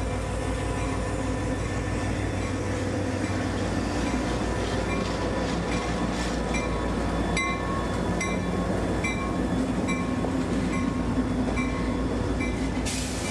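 CSX freight train passing close by: the diesel locomotive's engine hum gives way to the rumble of the freight cars rolling past. A regular click comes about every three quarters of a second.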